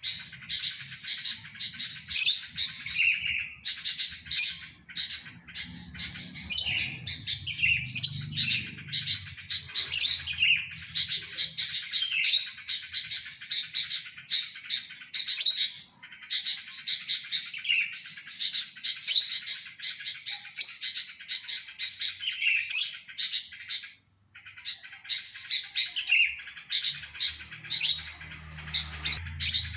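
Sooty-headed bulbul (kutilang) chirping and singing in a rapid, continuous run of short notes, with one brief pause.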